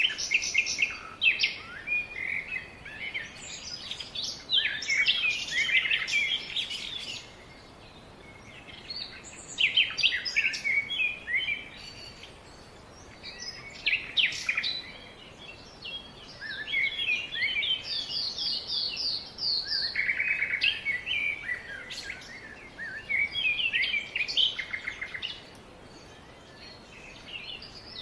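Several songbirds singing and chirping in bouts of quick trills and whistled phrases, with short lulls between them, over a faint steady background hiss.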